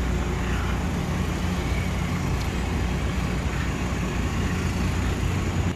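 Steady street traffic noise, with a low, even engine hum underneath.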